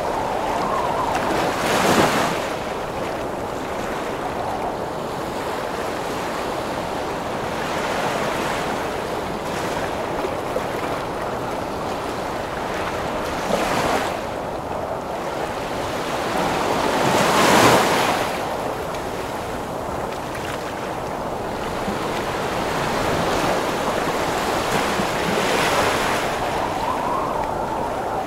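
Heavy ocean waves breaking in a steady rush of storm wind. The biggest crashes come about two seconds in and just past the middle, with smaller surges between them and near the end.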